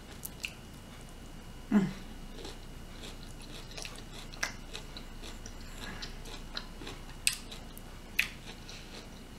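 A person chewing food close to the microphone: scattered wet mouth clicks and smacks, with one short hum about two seconds in.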